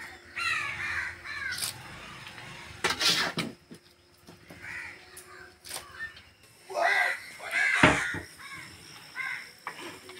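Birds cawing in short runs of repeated calls, with a few sharp knocks in between, the loudest about eight seconds in.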